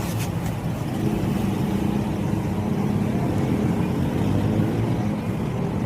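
Small motorcycle engine running steadily, getting a little louder about a second in.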